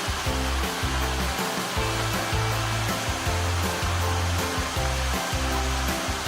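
Steady rushing roar of a waterfall, with background music and its stepping bass line laid over it.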